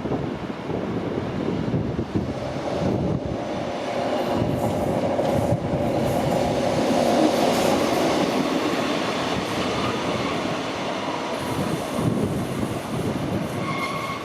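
A train running past on the rails, growing louder to a peak about halfway through and then easing off, with a steady tone in the middle and a thin high squeal coming in near the end.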